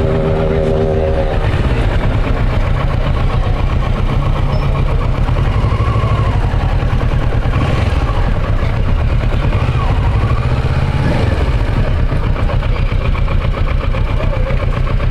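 Motorcycle engines running among a large group of bikes: a steady low rumble, a brief held tone at the start, and engines revving up and back down twice around the middle.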